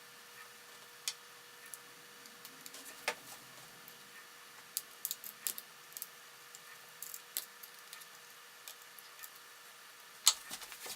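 Light clicks and taps from laptop parts and tools being handled during a PowerBook G4 12-inch teardown, scattered irregularly, with the sharpest knock about ten seconds in, over a faint steady hum.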